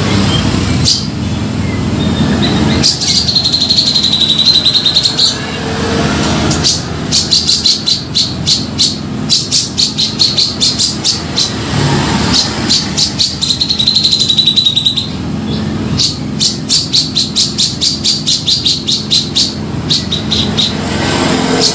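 Grey-cheeked bulbul (cucak jenggot) singing busily, with trilled phrases alternating with long runs of rapid repeated notes, over a steady low rumble.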